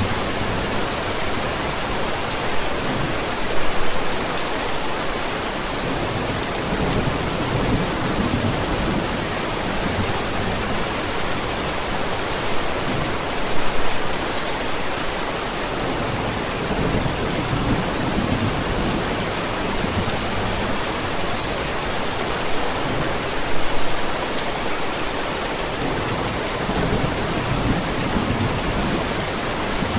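Steady rain storm, an even hiss of rain with low thunder rumbling underneath. The sound swells briefly three times, about ten seconds apart.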